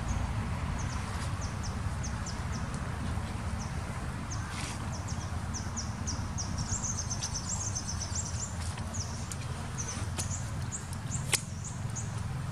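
Outdoor ambience of small birds chirping: quick high chirps in clusters throughout, over a steady low rumble. A single sharp click sounds about eleven seconds in.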